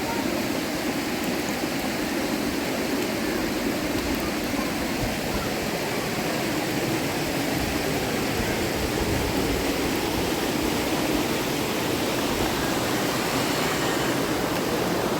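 Fast-flowing river rushing, a steady, unbroken wash of water noise.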